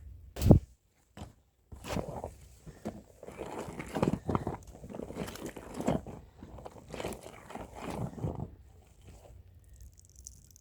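Stiff hand brush scrubbing a rug, in repeated scratchy strokes that come roughly one to two a second and thin out near the end. A single thump about half a second in, followed by a brief dropout.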